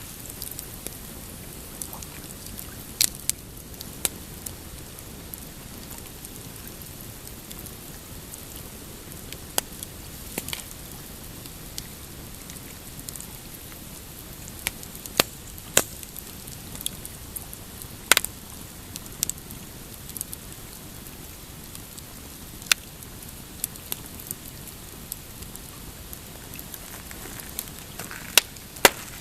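Pine campfire crackling, with sharp pops scattered irregularly every second or few, over a low steady wash of small waves lapping on a rocky shore.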